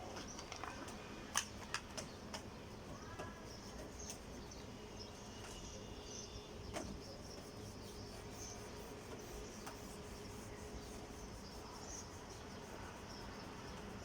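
Quiet background with a steady faint hum, scattered faint high chirps and a few sharp clicks, most of them in the first few seconds.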